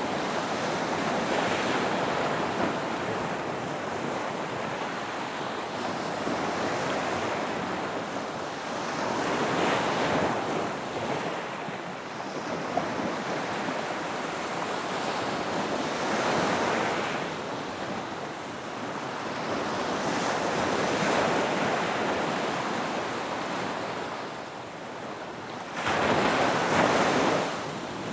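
Ocean surf on a beach: a steady wash of waves with breakers swelling and falling every five or six seconds, the loudest near the end, cutting off sharply.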